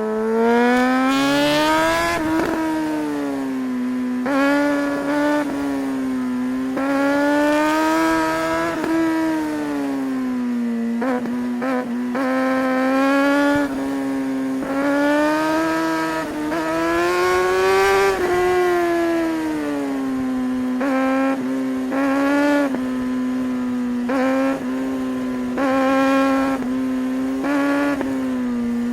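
Suzuki GSR600's inline-four engine, heard from the bike while riding, pulling hard and easing off again and again, its pitch climbing and falling every few seconds. Wind and road noise run underneath, and in the second half the note breaks into a string of short dips as the throttle is snapped shut and reopened.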